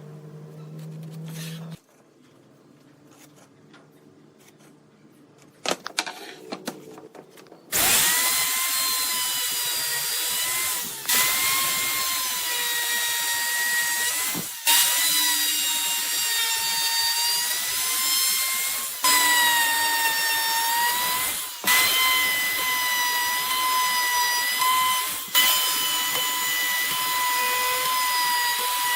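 A high-speed power tool cutting wood, running in passes of a few seconds with a steady high whine, each pass broken by a brief dip. It starts about a quarter of the way in, after a low hum stops and a few light knocks.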